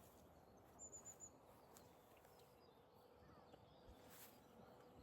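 Near silence: faint outdoor background, with a bird's four quick high chirps about a second in.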